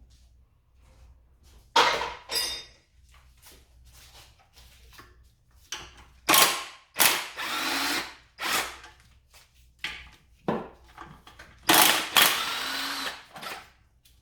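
A handheld power tool running in about five short bursts of up to two seconds each, with pauses between them, as it works on bolts during engine teardown.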